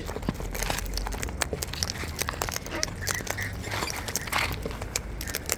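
A cockatoo cracking and husking seed close to the microphone: a steady run of small sharp clicks and crunches, with a few short scratchy sounds about three to four and a half seconds in.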